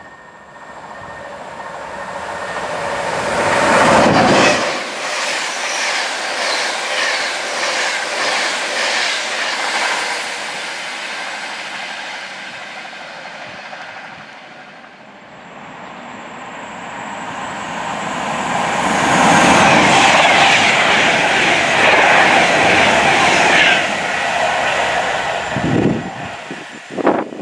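Two trains passing at speed, one after the other. Each swells to a loud rush of wheels and air, and the first trails off in a rhythmic clickety-clack of wheels over rail joints.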